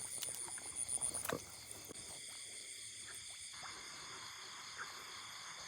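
Steady high-pitched chorus of night insects such as crickets, with a few faint clicks and knocks in the first second and a half.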